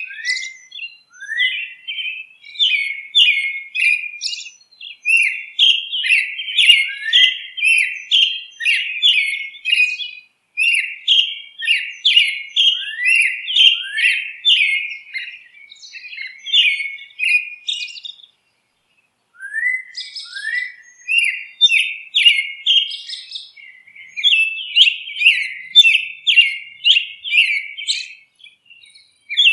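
Small birds chirping busily: a dense, rapid run of short, high chirps, many sweeping downward, with one break of about a second about two thirds of the way through.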